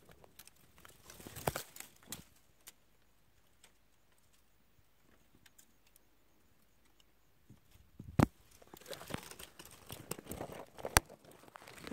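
Scattered crackling, rustling and sharp clicks, with a quiet stretch of a few seconds in the middle.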